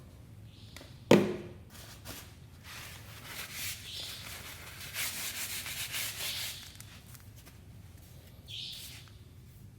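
A sharp knock about a second in, then several seconds of rubbing, as of hands working with tools and parts during a motorcycle oil change.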